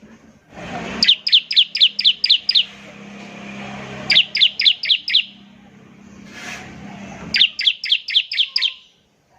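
Bar-winged prinia (ciblek) singing its rapid 'ngebren' shooting song: three quick bursts of six or seven sharp, downward-sliding notes, about five a second. A faint low hum and hiss lie underneath and stop about seven seconds in.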